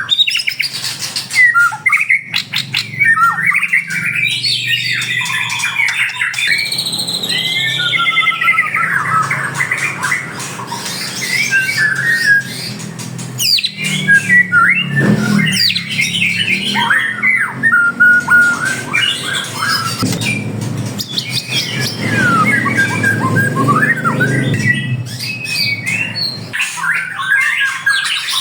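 Many caged songbirds calling and singing at once: a dense jumble of overlapping chirps, trills, squawks and sweeping whistles, over a low steady hum.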